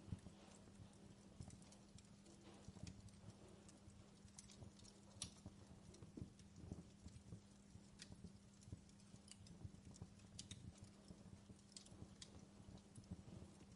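Fireplace crackling faintly, with irregular sharp pops and snaps of burning wood, over a steady low hum.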